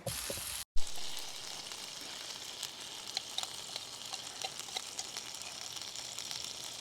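Food frying on a one-burner Coleman camp stove: a steady sizzling hiss with many small pops. It starts just under a second in, after an abrupt break.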